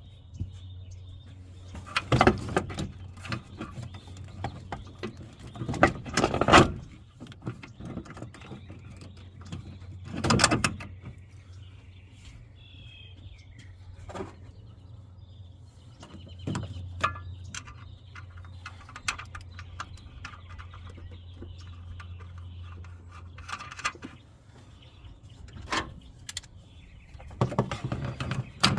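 Scattered clanks and knocks of hand work and tools on the truck as a replacement brake booster is fitted, over a steady low hum. Birds chirp faintly, once clearly about halfway through.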